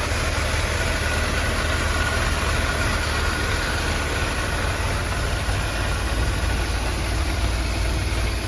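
Tractor engine running steadily, driving a mounted sprayer pump: a steady low rumble with a faint high whine over it.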